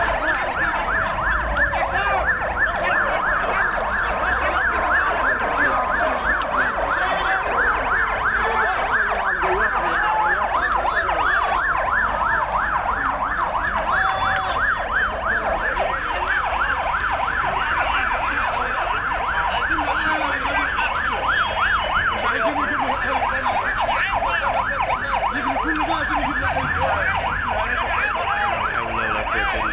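Several emergency vehicle sirens sounding at once in a fast, continuous yelp, their pitch sweeping rapidly up and down, over a low rumble of vehicles.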